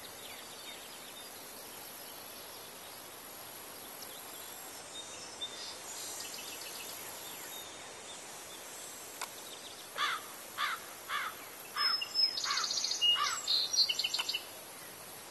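Steady background hiss, with a run of short, quick bird chirps falling in pitch and some higher buzzy calls over the last five seconds or so.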